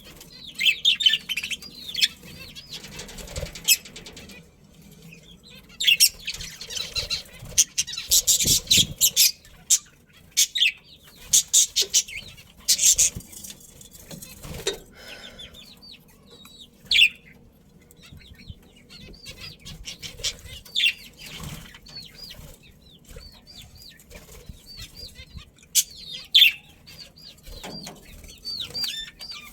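A flock of budgerigars chirping and warbling in short, quick notes, with bursts of wings flapping, heaviest in the middle of the stretch.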